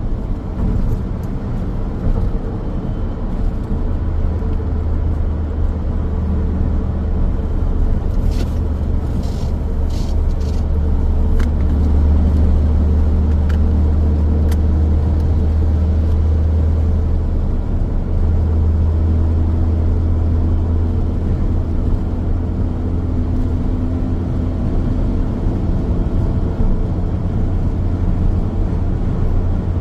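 A car driving along a road: a steady, deep rumble of engine and tyres on the road, with a few faint ticks about eight to eleven seconds in.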